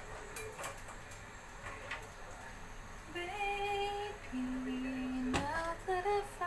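A woman hums a slow tune in long held notes, starting about three seconds in, with a few faint clicks before it and a single knock near the end.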